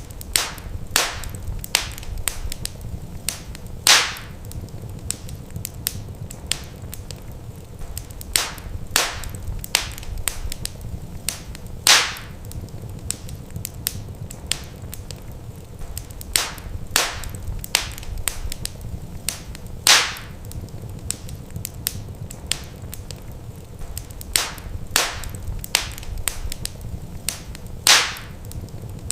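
Wood fire in a fireplace, crackling steadily over a low rumble, with sharp pops; the loudest pops recur about every eight seconds.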